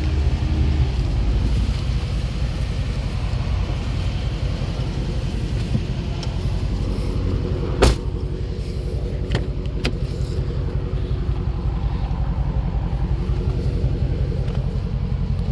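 Dodge Challenger Daytona 392's 6.4-litre HEMI V8 idling with a steady low rumble. A single sharp click sounds about eight seconds in, with two fainter clicks shortly after.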